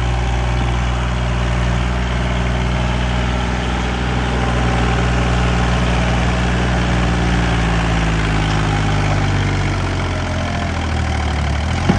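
Tractor diesel engine running steadily and loudly. Its pitch sinks gradually in the second half, as if the engine is labouring under load, then climbs again at the very end.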